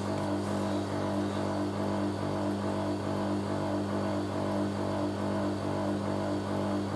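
Hoover A3060 Electronic 1100 washing machine running in its spin stage, giving a steady, even hum.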